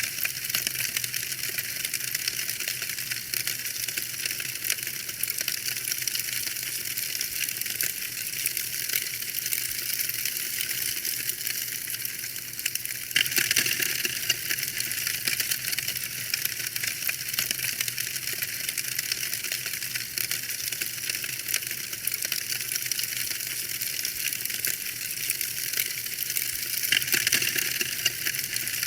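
Fireplace fire crackling with a steady stream of fine snaps and pops. Louder flurries of crackling come about halfway through and again near the end.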